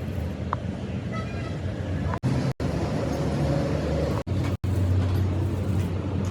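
A low, steady engine or motor hum, broken by several abrupt short gaps.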